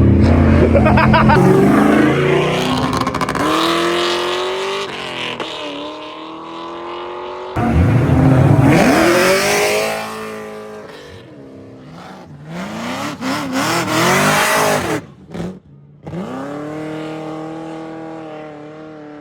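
Car engines revving and accelerating in several short cut-together clips, their pitch rising and falling with each rev. There is a stretch of tyre squeal about eight seconds in.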